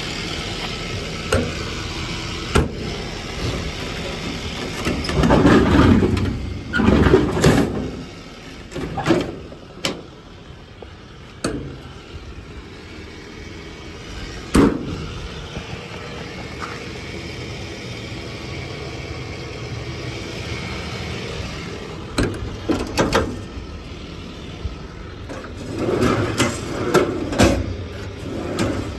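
Metal compartment doors and latches on a truck's service body being opened and closed: irregular clunks, rattles and a sharp knock over a steady low hum.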